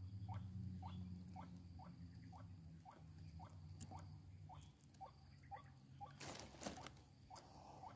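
Faint, repeated short rising calls, about two a second, typical of white-breasted waterhens (ruak-ruak) calling. A low steady hum stops about halfway through, and a brief rustle comes near the end.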